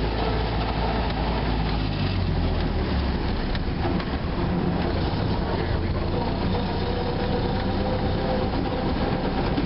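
1931 Ford Model A's four-cylinder flathead engine running as the car drives along, heard from inside the car, its low rumble easing slightly about two seconds in.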